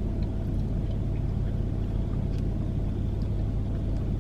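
Steady low hum of a running vehicle, with a few faint small clicks over it.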